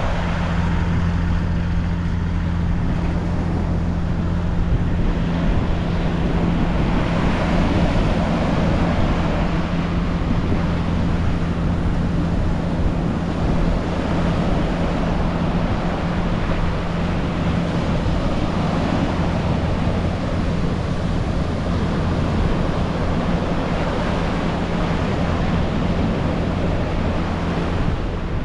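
A boat engine running at a steady speed, with a constant low hum, under wind noise on the microphone and the wash of the sea.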